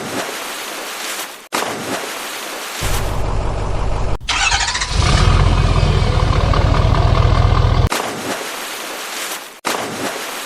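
Vehicle engines running in short spliced segments that change abruptly several times, a low steady engine hum alternating with higher engine noise. A louder engine comes in about four seconds in and runs steadily for a few seconds.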